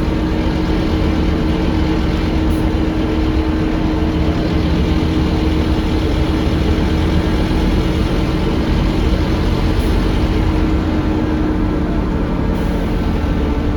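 Scania DC9 five-cylinder diesel of an articulated Scania K310UA bus running steadily, heard from inside the cabin, with a constant low hum over the engine and road noise.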